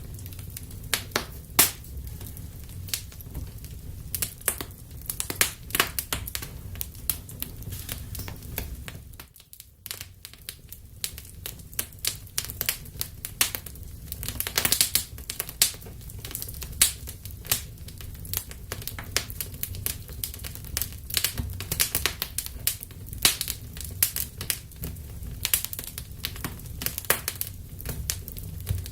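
Wood fire burning in a fireplace: steady low rumble of the flames with frequent irregular crackles and sharp pops of the burning wood. The sound drops away briefly about a third of the way through.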